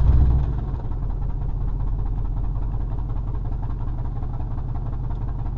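Pickup truck engine just after starting, loudest at first and settling within about a second into a steady idle.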